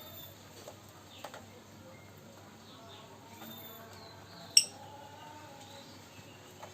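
Quiet background with faint voices or music, a couple of light taps early on, and one sharp click about four and a half seconds in.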